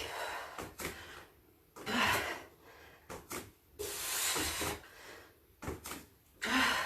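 A woman's heavy breathing during exercise: four forceful breaths a second or two apart, the one about four seconds in the longest, with a few light knocks in between.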